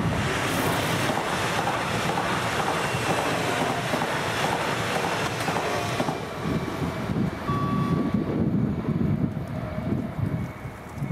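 Eurobahn electric multiple-unit train passing close by over a level crossing on a single-track electrified line, its wheels running on the rails, then dying away as it moves off after about six seconds.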